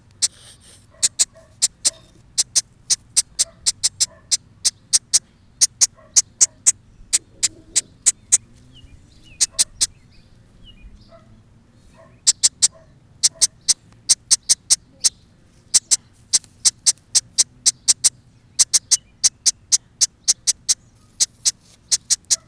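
Baby blackbird giving short, sharp, high-pitched begging calls over and over, about two to three a second, in runs broken by a few brief pauses.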